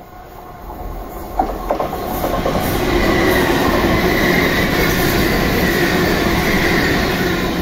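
Two coupled ScotRail Class 334 electric multiple units passing through the station platform. The rumble of wheels on rail builds with a few sharp clicks about a second and a half in, then holds loud with a steady high whine before starting to fade near the end.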